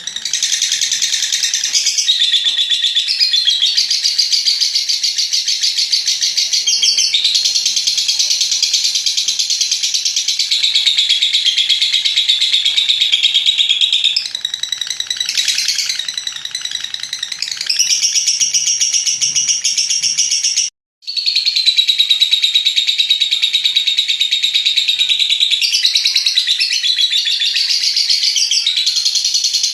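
Lovebird's long 'ngekek' chatter: a high, very rapid trilling chatter held for many seconds at a stretch, broken only by short changes of phrase. Near two-thirds of the way in it cuts out completely for a moment, then resumes.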